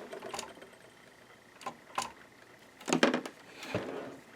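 A few sharp clicks and knocks from a Janome ME4014 sewing machine being handled and its parts moved. They come singly and in a short cluster about three seconds in, with no motor running.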